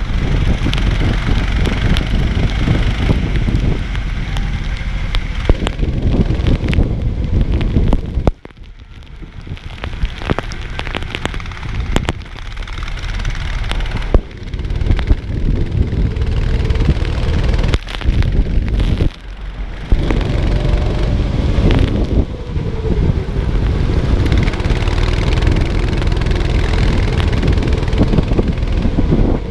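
Go-kart engine running on track in the rain, buried under a loud rush of wind and wet noise. The level drops sharply several times, most deeply about eight seconds in.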